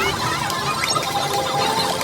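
Marble pinball game machine, balls clinking and rattling in a busy clatter of short clicks with small electronic chirps.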